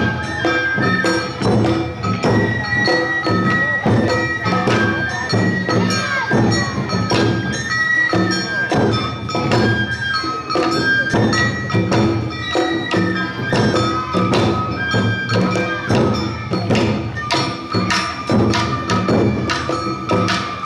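Awa-odori narimono band playing live: a bamboo-flute melody of held high notes over a steady beat of taiko drums and the small kane hand gong.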